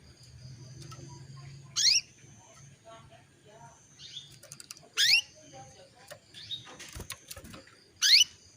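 Female canary calling: three loud, quick upward-sweeping calls about three seconds apart. These are the contact calls a hen canary uses to call a male, which stir male canaries into song.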